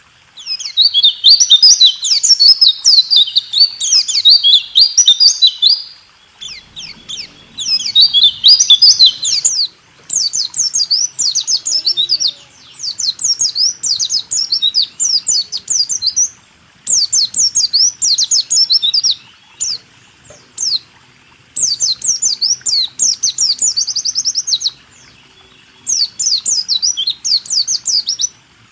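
White-eye (pleci) singing in fast runs of high, rapid chirps, about eight phrases of two to four seconds each separated by pauses of about a second, in the rolling 'rool tembak' style.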